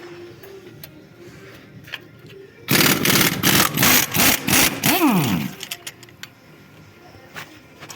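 Power wrench running in one loud burst of about three seconds, chattering rapidly, then a pitch that rises and falls as it spins down, while undoing fasteners on a car's front suspension during strut removal.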